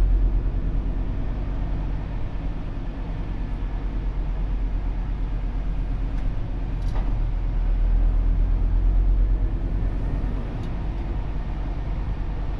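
Laden Scania car transporter's diesel engine and road noise heard from inside the cab while driving, a steady low rumble that swells about eight seconds in. A single sharp click about seven seconds in.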